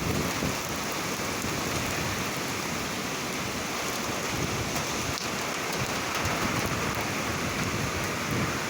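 Rain pouring steadily in a summer thunderstorm, an even hiss, with a brief low rumble right at the start.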